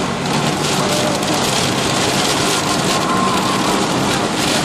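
Steady rush of rain and tyre noise heard from inside a car driving on a wet highway.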